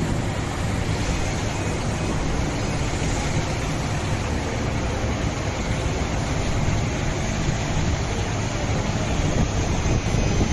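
Bag-packaging machine with zipper closer and inline weight checker running: a steady, even mechanical noise.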